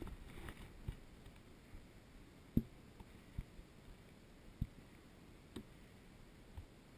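A few faint, scattered knocks and thumps over a quiet background, about five spread over several seconds.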